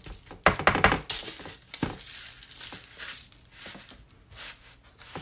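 Kitchen handling sounds: a quick run of clicks and knocks about half a second to a second in, then scattered lighter clicks and rustling as things are moved about on the counter.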